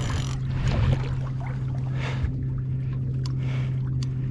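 Electric boat motor humming steadily as it works to hold the boat in position, with water splashing and sloshing at intervals.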